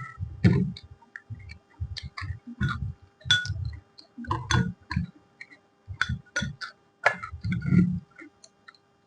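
Close-miked chewing of a person eating, in short irregular bursts about three times a second, with sharp wet mouth clicks.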